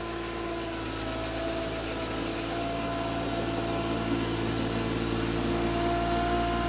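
Suzuki Jimny engine idling steadily, a little louder toward the end.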